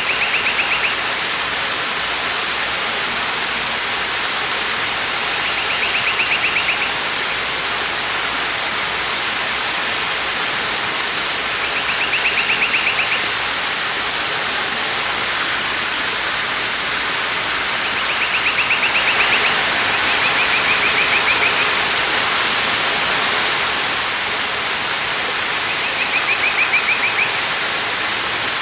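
Waterfall rushing steadily. Over it, a bird repeats a short, rapid trill about a second long, roughly every six seconds, once doubled.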